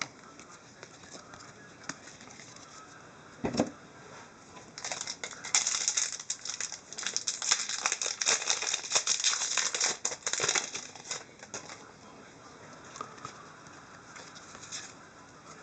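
Hockey trading cards and their plastic packaging being handled: a single knock about three and a half seconds in, then several seconds of crinkling and rustling that trails off.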